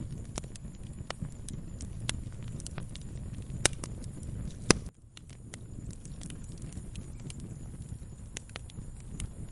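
Wood fire crackling in a fireplace: a steady low rumble of flames with frequent small pops, and two much louder pops about halfway through. Just after them the sound drops out for a moment before the crackling resumes.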